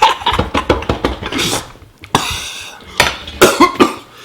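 Utensils clinking and scraping against a bowl while spicy ramen noodles are eaten, in a series of sharp clicks and knocks. A louder, throaty burst of sound comes about three and a half seconds in.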